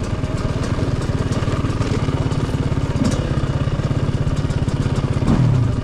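Motocross bike engine running at low revs with a steady, rapid pulsing beat, swelling briefly about five seconds in.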